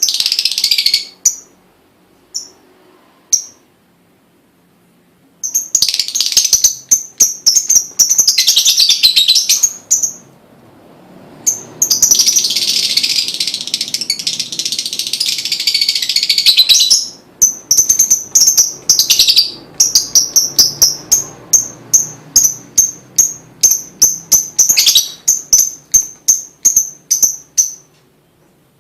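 Lovebird chattering in shrill trilling bouts, its bait song (pancingan) used to set other lovebirds singing. The bouts are broken by short pauses, and for the last ten seconds or so it turns to quick separate chirps, about three a second.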